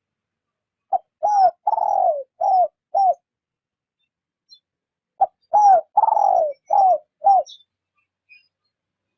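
Spotted dove cooing: two phrases of five coos each, about four seconds apart. Each coo falls in pitch, and the third coo of each phrase is the longest.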